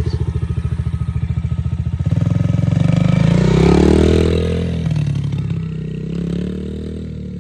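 Yamaha TTR-110's small single-cylinder four-stroke engine running steadily, then revving up about two seconds in and easing back down. This is the bike pulling away and held in first gear, which the rider's father says he can hear.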